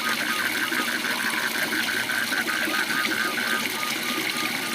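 Waterfall's steady rush of falling water, with a frog calling over it in a rapid, even train of short notes, about five or six a second.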